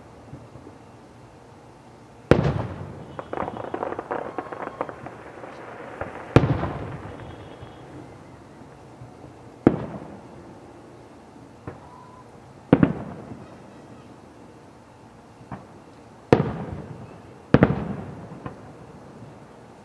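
Aerial fireworks shells bursting overhead: about six loud booms spaced a few seconds apart, each trailing off in an echo, with a spell of crackling pops after the first one.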